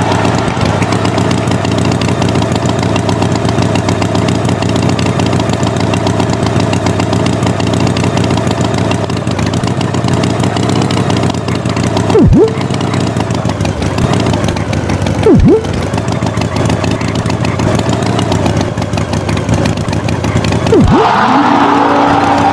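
A motor vehicle engine running steadily as an animation sound effect. Three short swoops that drop in pitch and come straight back up cut in at about twelve, fifteen and twenty-one seconds.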